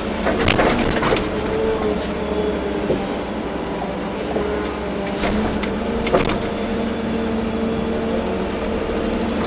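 Volvo EC240B excavator working, its engine and hydraulics giving a steady whine that shifts as the machine moves. A few sharp knocks are heard, the loudest about six seconds in.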